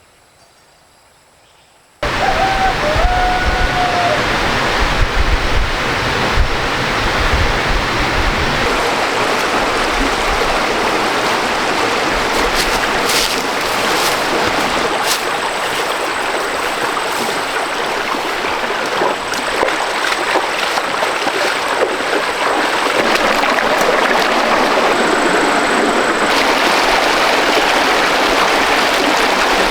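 Fast stream water rushing and splashing over rocks, a steady loud rush that starts suddenly about two seconds in, with a deep rumble under it for the first several seconds.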